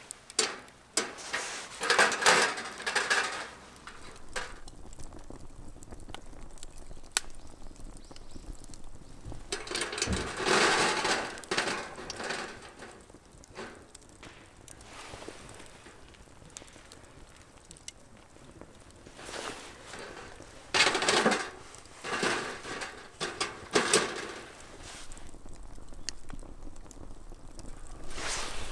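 Camping gear being handled: irregular bursts of clattering and rustling, with quieter pauses between them.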